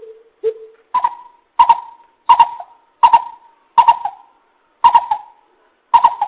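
Greater coucal calling: a series of deep hooting notes, two lower ones and then seven higher ones, spaced more widely toward the end.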